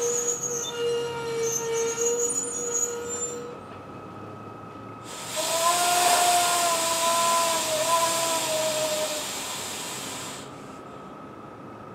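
NJ Transit Multilevel double-deck commuter train passing at speed on the electrified line. A steady whine and a high squeal run for the first few seconds. About five seconds in comes a louder hissing rush with a humming tone that sags slightly in pitch, lasting about five seconds and cutting off sharply.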